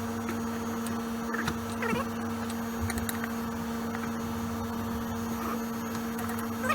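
A steady electrical hum with a couple of faint short squeaks and ticks over it.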